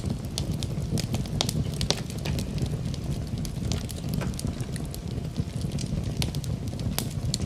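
Wood fire crackling in a fireplace: frequent sharp pops and snaps at irregular times over a steady low rumble.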